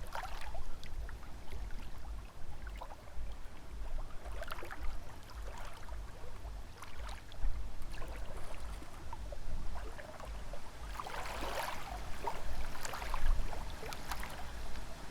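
Small lake waves lapping and splashing at the shore in irregular splashes, one cluster louder about eleven seconds in, with wind gusting low on the microphone.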